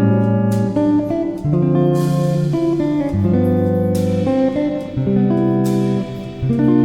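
Background music led by guitar, with notes and chords changing about every half second.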